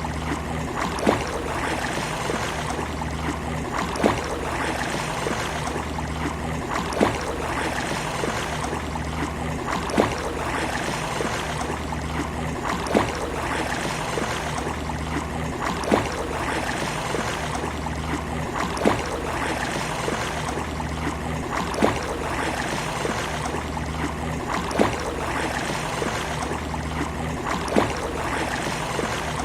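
Sea waves washing on a beach: a steady rush of water, with a short sharp click about every three seconds.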